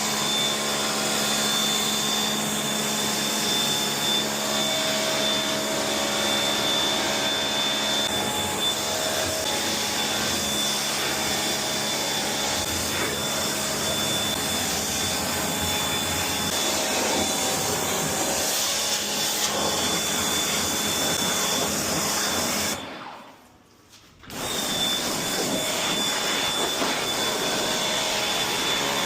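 Self-service car wash pressure washer wand spraying with a steady hiss and a thin high whine. It cuts out sharply for about a second and a half, as if the trigger was released, then starts again.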